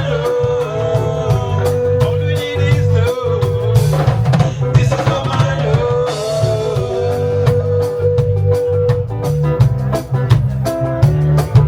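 Live reggae band playing a lovers rock tune: a heavy bass line and a steady drum-kit beat, with a long held melody note near the start and another in the second half.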